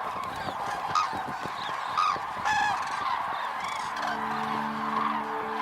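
A flock of common cranes calling, many trumpeting calls overlapping; low, sustained music notes come in about four seconds in.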